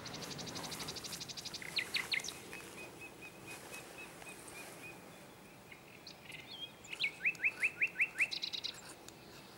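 Songbirds singing: a fast high trill at the start, then a run of short repeated notes, and near the end a quick series of six rising notes followed by another brief trill.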